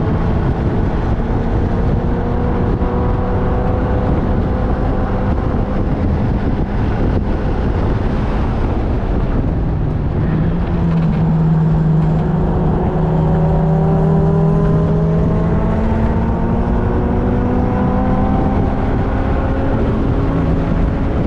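Race-track vehicle engine running hard at speed, its pitch climbing slowly through two long pulls, over a steady drone and rushing wind and road noise.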